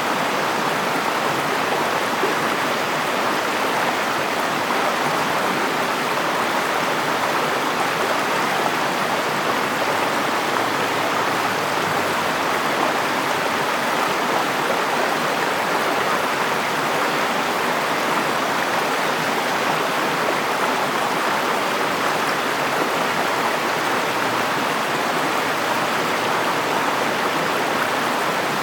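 River water flowing steadily over rocks, a constant rushing of running water.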